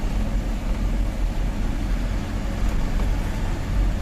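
Tata 1512 truck's diesel engine running steadily as the laden truck drives along, a deep continuous rumble.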